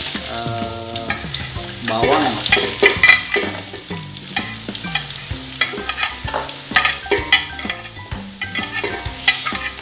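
Chopped onion and garlic sizzling as they drop into hot oil in a metal pot, with a slotted spatula scraping and tapping them off a glass dish in frequent short clicks.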